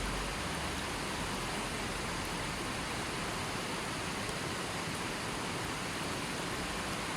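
River water flowing steadily over stones: an even, continuous rushing with no birds or other sounds.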